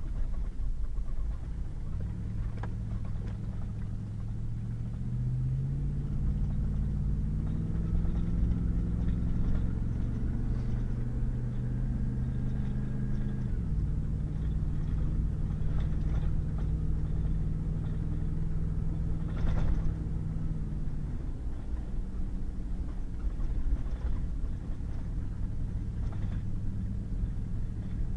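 Pickup truck driving on a rough back road: engine drone and low road rumble, the engine note climbing for about ten seconds as it accelerates, then dropping suddenly and again later as it eases off, with a few short knocks from the road.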